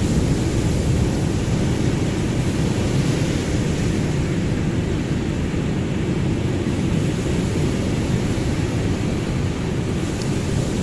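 Ocean surf: a steady, deep wash of breaking waves with a hiss that eases slightly midway and swells again.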